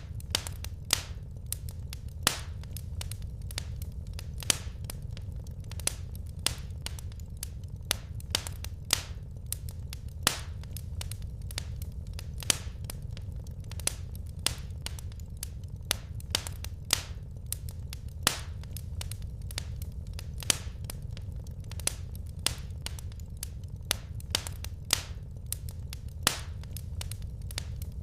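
Wood fire crackling in a fireplace: sharp, irregular pops and snaps, several a second, over a steady low rumble of the burning fire.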